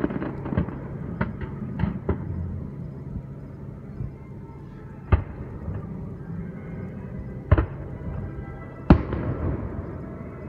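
Aerial fireworks shells bursting in a run of sharp bangs, the three loudest about five, seven and a half and nine seconds in, with music playing underneath.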